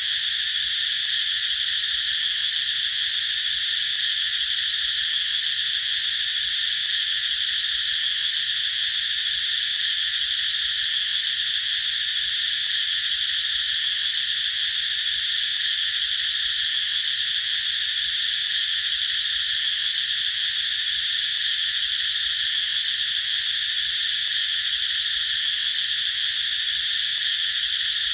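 Cicadas singing in a steady, unbroken chorus: a continuous high-pitched buzz that holds an even level throughout.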